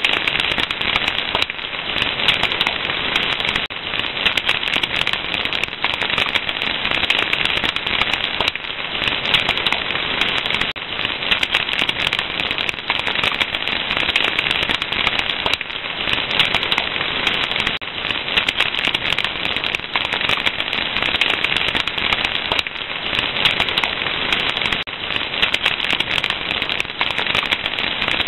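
Wood fire crackling steadily: a dense run of small pops and snaps over a soft hiss, with no pauses.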